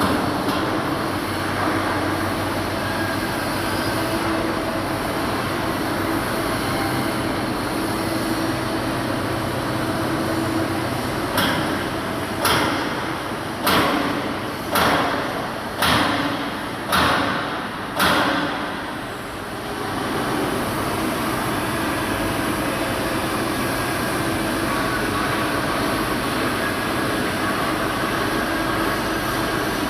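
Steady machinery drone with a low hum, broken about midway by a run of seven loud metal-on-metal strikes, roughly one a second, each ringing briefly.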